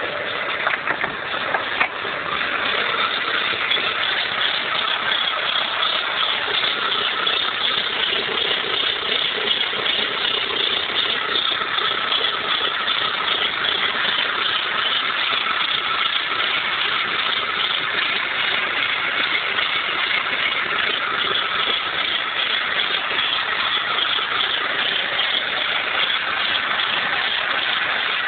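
VW Golf 1.8T's turbocharged four-cylinder engine running steadily at idle, carrying an odd noise from the engine bay that the owner cannot place. A few sharp louder knocks come in the first two seconds.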